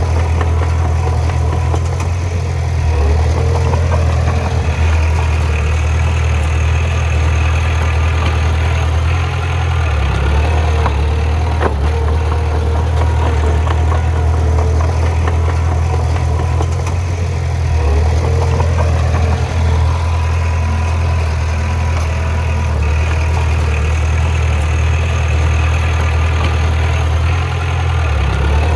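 Heavy diesel engine of a bulldozer running steadily with a low hum that swells and eases with load every several seconds. A single sharp clank comes about twelve seconds in.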